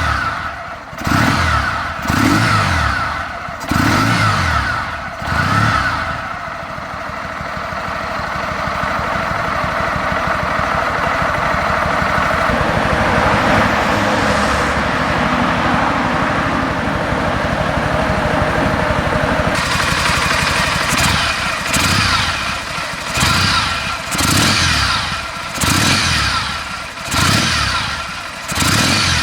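Kawasaki W650 air-cooled vertical-twin engine revved through its stock mufflers. It gives about five quick throttle blips, then holds raised revs for over ten seconds, then blips repeatedly again near the end.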